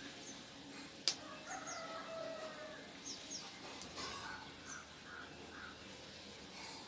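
Faint bird calls in the background: several short high chirps and a longer, lower call about a second and a half in, with a single sharp click just after a second in.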